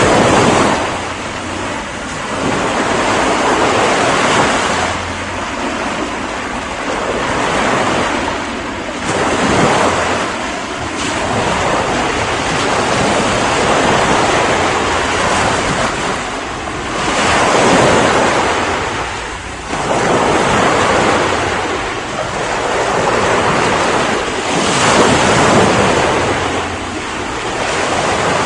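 Ocean waves breaking and washing in, a continuous rush of surf that swells and eases every few seconds, with a loud crest about 17 to 19 seconds in and another near 25 seconds.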